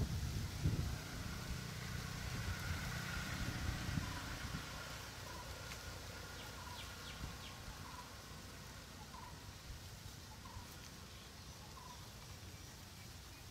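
Open-field ambience with a bird repeating a short note about once a second. A low rumble with a few thumps in the first second or so dies away.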